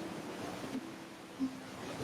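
Ocean surf washing steadily onto a beach, with brief low tones popping up every half second or so, the loudest about a second and a half in.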